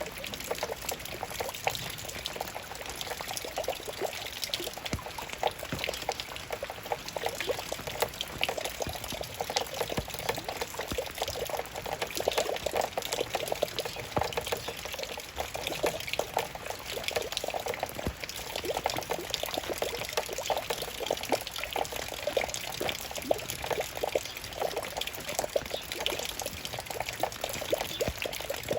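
Raindrops falling in a dense, steady patter of many small drop hits, with a trickling, pouring wash of running water beneath.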